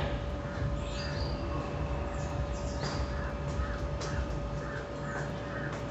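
Birds calling: a run of short repeated calls and several brief high notes that slide downward, over a steady low hum.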